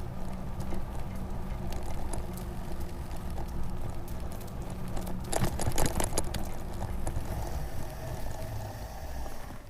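Bicycle in motion: a steady low rumble from the ride, with a cluster of rattling clicks about five and a half seconds in. These are the other noises from the bike that the rider now hears because the BBSHD mid-drive motor runs so quietly.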